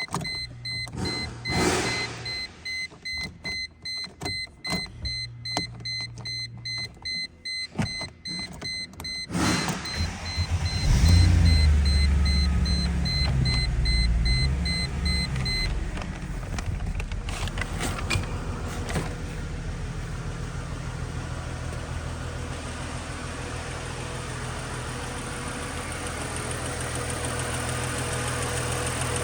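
2007 Chrysler Crossfire's 3.2-litre V6 being started: a dashboard warning chime and clicking for several seconds, then the engine cranks and catches about ten seconds in with a loud rev. It settles into a steady idle.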